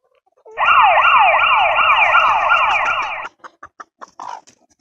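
Electronic siren sounding a fast, repeating falling yelp, about two and a half sweeps a second, loud. It starts abruptly about half a second in and cuts off suddenly after about two and a half seconds.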